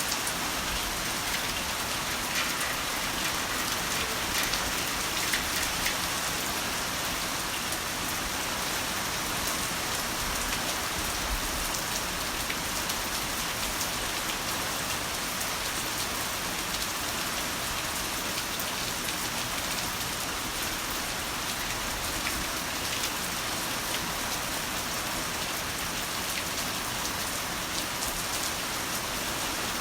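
Heavy rain falling steadily: a dense, even hiss with individual drops ticking close by.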